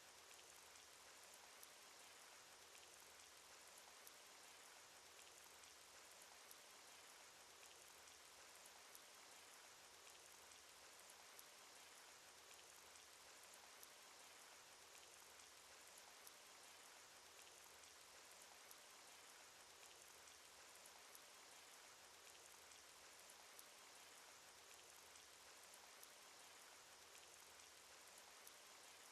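Faint, steady cartoon rain sound effect: an even hiss of rainfall with scattered single drop ticks.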